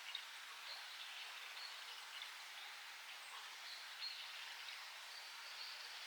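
Faint outdoor forest ambience: a steady hiss with short, faint bird chirps every second or two.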